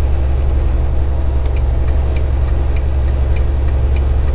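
Volvo 780 semi-truck running at highway speed, a steady low engine drone and road noise heard inside the cab, with faint light ticks every half second or so.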